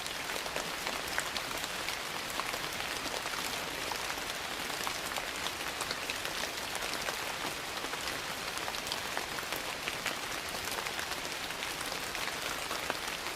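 Steady rain falling, mixed with a wood fire crackling in many small, sharp pops.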